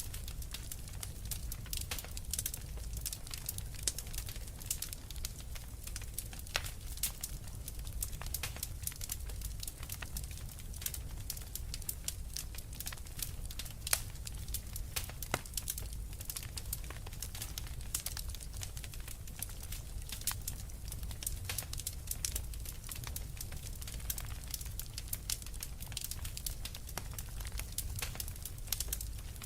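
Wood fire crackling in a fireplace: frequent irregular snaps and pops over a steady low rumble of burning.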